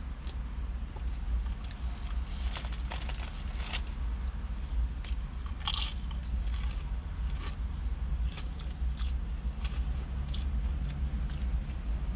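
Close-up chewing and crunching of a steak and cheese sub, with irregular crisp bites and crunches, the sharpest a little past halfway. A steady low hum runs underneath.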